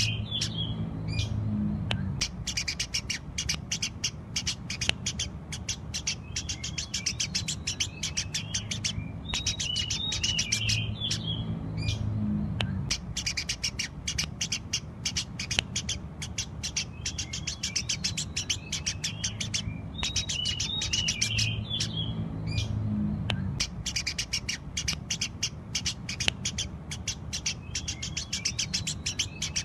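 Eurasian tree sparrows chirping in a dense, rapid, continuous chatter with brief lulls, over a steady low hum. The same stretch recurs about every ten seconds.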